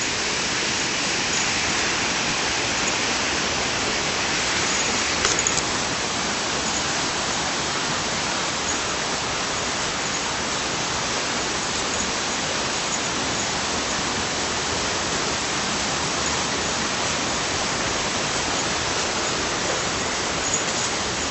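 Steady rushing of a stream or river, an even hiss of flowing water with no change in level, and a few faint clicks about five seconds in.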